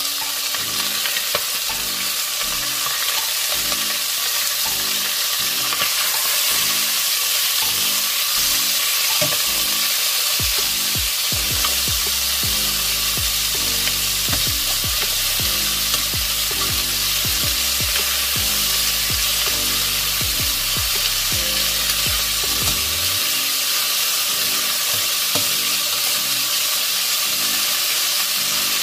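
Chicken thighs sizzling steadily in hot oil as they brown in a pot, with metal tongs now and then clicking against the pot as the pieces are turned.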